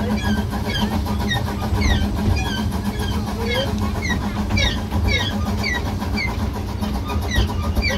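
Miniature steam railway train running along the track, heard from the carriage just behind the locomotive: a steady low rumble of the engine and wheels, with a constant low hum.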